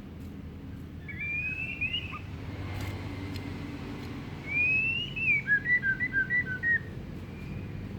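White-rumped shama (murai batu) singing: two rising whistled phrases, then a quick run of about six short clipped notes.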